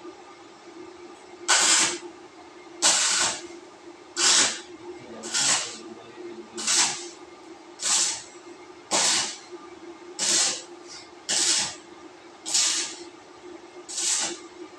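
Power sprayer shooting short hissing bursts of spray, eleven of them, about one every 1.2 seconds, over a steady low hum.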